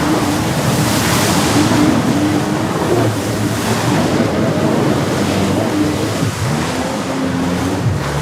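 Jet ski engine running over the water, its pitch wavering up and down, with a steady rush of water and spray.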